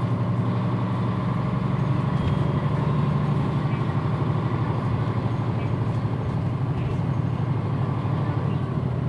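Mitsubishi Fuso PJ-MP35JM city bus's diesel engine running steadily at an even pitch.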